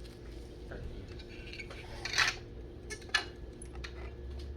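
Small hard objects being handled and clinking, with a short rattle about two seconds in and a sharp click about a second later, over a low steady hum.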